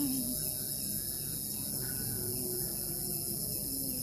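Crickets chirring in a dense, continuous chorus, a steady high-pitched trill that doesn't let up.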